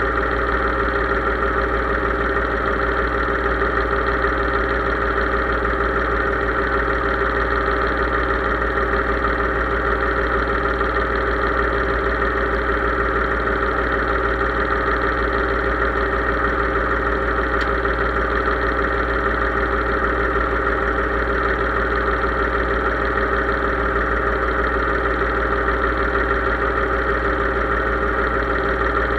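Case IH 3220 tractor's diesel engine running at a steady, unchanging speed.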